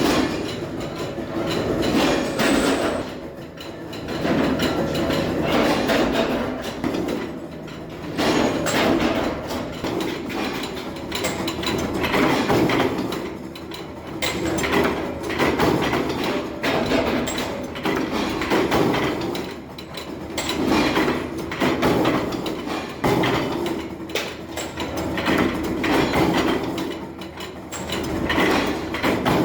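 Metalworking machinery in a bolt factory running with a dense metallic clatter and knocking, swelling and easing every two to three seconds.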